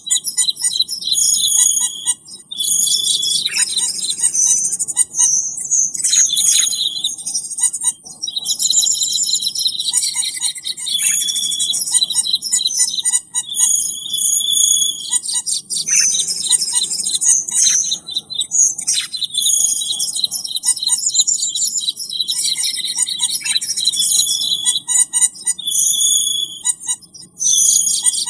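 Cucak keling birds calling: a dense, continuous chatter of rapid high chirps and whistles from a recorded lure call (suara pikat), with a few brief pauses.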